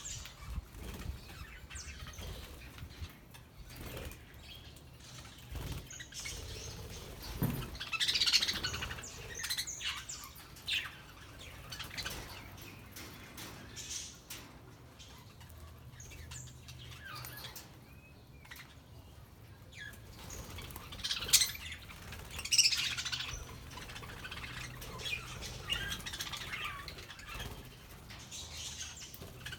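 Several budgerigars chirping in short high bursts, louder in clusters about 8 and 21 seconds in, with wing flaps and scattered small clicks and taps.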